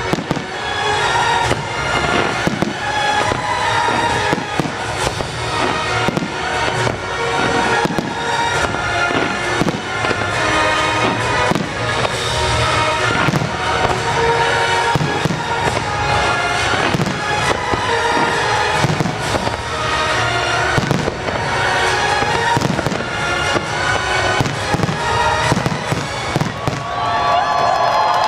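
Fireworks shells bursting in rapid, dense succession, with many sharp bangs and crackles, over music played for a pyromusical show.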